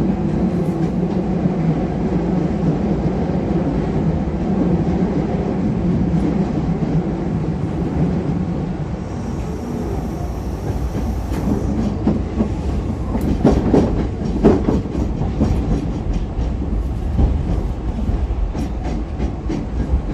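Hankyu electric train running on the track: a steady low rumble, then from about twelve seconds in a rapid, irregular series of clicks and clacks as the wheels pass over track joints.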